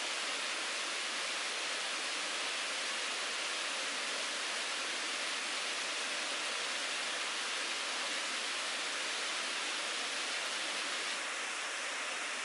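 Mountain stream water rushing steadily over rocks. A faint high insect trill joins near the end.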